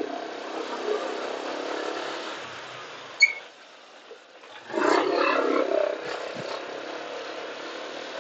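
Motorcycle engine running amid street noise, louder near the start and again about five seconds in, with one short high beep about three seconds in.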